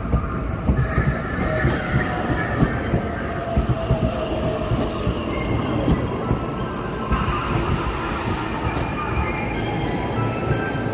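Electric commuter train pulling slowly out past the platform: steady wheel-and-rail rumble with a thin wheel squeal and irregular knocks over the rail joints.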